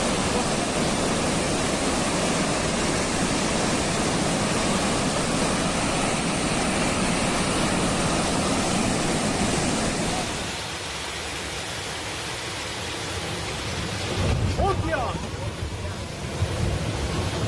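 Loud, steady rushing noise that cuts off abruptly about ten seconds in, followed by quieter rushing with people's voices calling out a couple of times.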